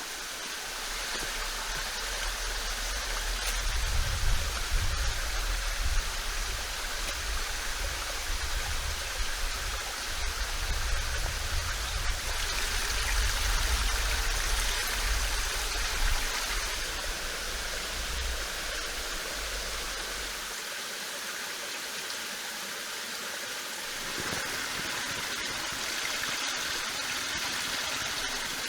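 Stream water running steadily, with a low rumble underneath that stops about twenty seconds in.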